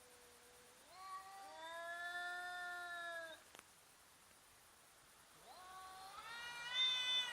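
Cats yowling at each other in a standoff: a long drawn-out yowl held for about two seconds, then after a pause another yowl that rises in pitch and grows louder near the end.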